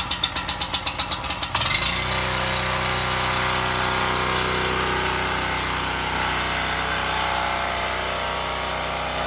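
Champion 4500 portable generator's engine being cranked with a rapid, even pulsing, then catching about a second and a half in and settling into a steady run. This is the new generator's first start.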